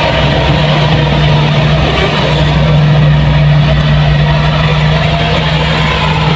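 Kubota combine harvester running with a loud, steady engine drone and a strong low hum.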